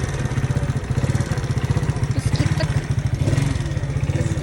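Motorcycle engine running with a steady, rapid low putter.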